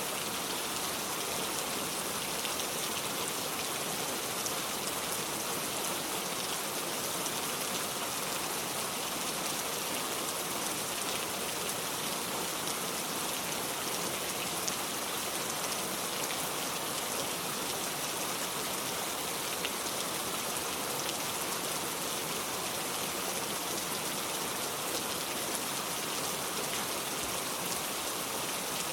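Steady rain falling: an even, unbroken hiss of dense patter with scattered faint ticks of single drops.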